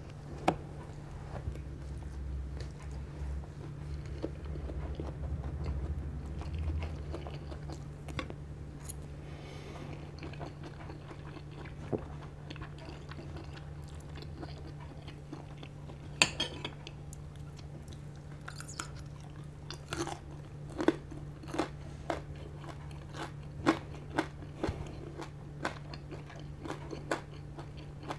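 Close-miked chewing of food with sharp crunches, sparse at first and then coming about one to two a second through the second half.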